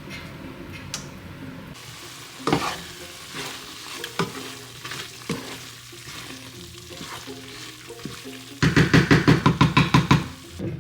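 Food being stirred in a frying pan with a spoon, with scattered clicks and light sizzling. Near the end comes a loud burst of fast, even stirring strokes, about seven a second, lasting under two seconds.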